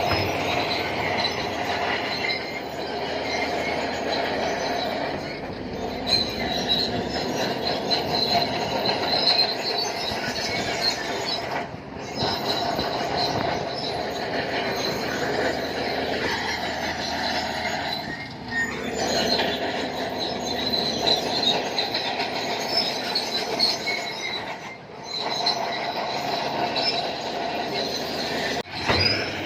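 Shantui crawler bulldozer at work, its steel tracks squealing and clanking continuously. The sound drops out briefly about four times.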